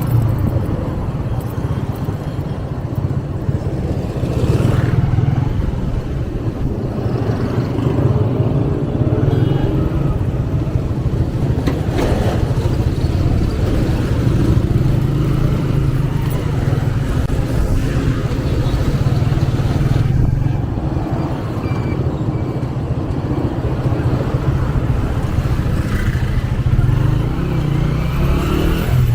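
125cc motorcycle engine running at steady riding revs, with other road traffic passing around it.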